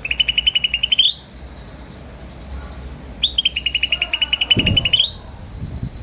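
A bird giving two rapid chirping trills, each one to two seconds long and ending in a quick upward sweep.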